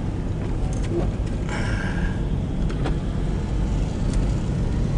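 A car driving, heard from inside the cabin: a steady low rumble of engine and tyres on the road, with a few faint ticks.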